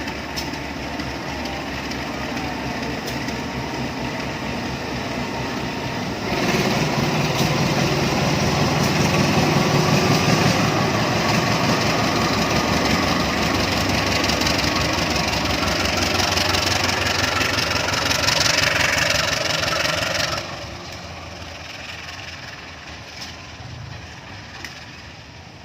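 A diesel train passing close by: a steady engine running, then about six seconds in a sudden, much louder passage of noise that cuts off sharply a few seconds before the end.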